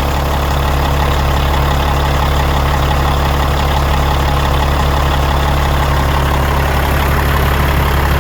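Diesel engine of a 1997 Peterbilt 379 truck idling steadily.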